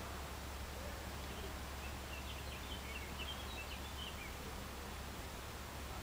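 Steady outdoor background hiss with a low hum, and a bird twittering briefly in the middle: a quick run of short high chirps lasting about three seconds.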